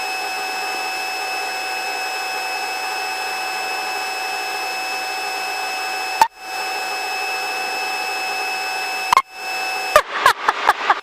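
Helicopter cabin noise heard through the intercom headset feed: a steady hiss with a constant high whine. It drops out briefly about six seconds in and cuts in and out several times near the end.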